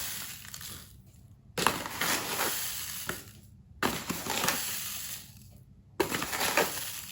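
A tablespoon scooping granulated sugar, a grainy crunch at each scoop, three times about two seconds apart.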